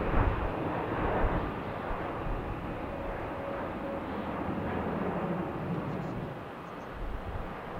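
Airliner jet engine noise: a steady rush with a faint whine in the middle, and wind buffeting the microphone near the start.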